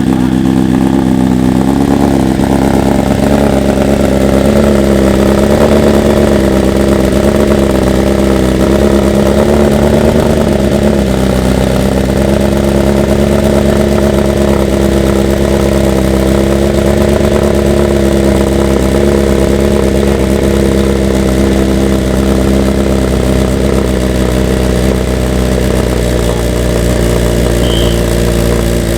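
BMW S1000RR inline-four engine idling steadily, without revs.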